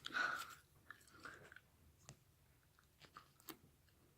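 Slime being handled: soft, sticky squelching at the start, then a few scattered faint clicks and crackles as it is pulled and pressed.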